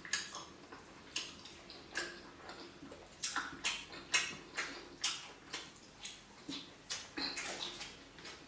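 Close-miked eating sounds: wet chewing and lip smacks as someone eats fish pepper soup and pounded yam, coming as irregular clicks about two or three times a second.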